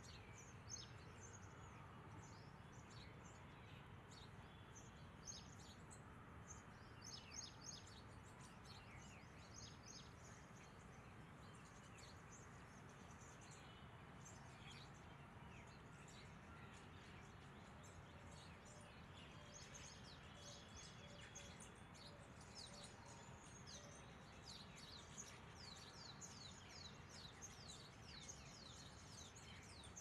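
Faint bird chirps: many short, high calls scattered throughout, busier in the last third, over a low steady outdoor background hum.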